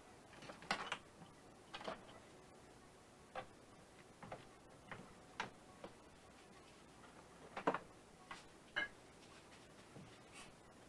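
About a dozen light clicks and knocks at irregular intervals, with the sharpest ones about a second in and near eight seconds.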